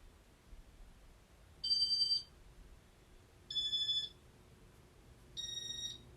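Three short electronic beeps, each about half a second long and about two seconds apart, the pitch differing a little from beep to beep, from a Casablanca Inteli-Touch ceiling fan confirming control commands. A faint low hum from the fan's K-55 induction motor comes in around the second beep.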